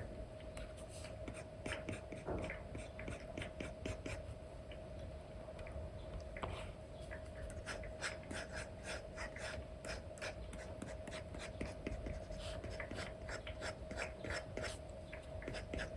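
Apple Pencil with an Elecom replacement nib scratching and tapping in many quick short strokes on a paper-like screen film over an iPad, with a steady faint hum underneath.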